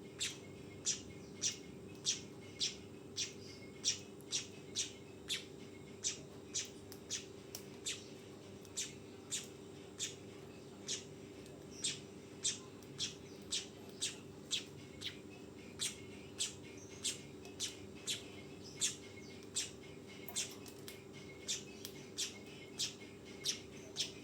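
Manyar (weaver bird) calling: short, sharp high notes repeated about twice a second in a steady run, over a faint steady low hum.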